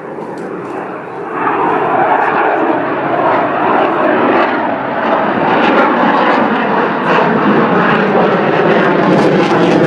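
Aircraft engine roar that swells sharply about a second in and stays loud, as an airplane passes close.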